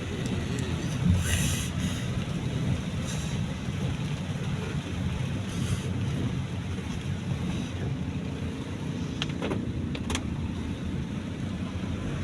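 Steady engine and road rumble heard from inside a moving car, with a couple of short clicks about nine and ten seconds in.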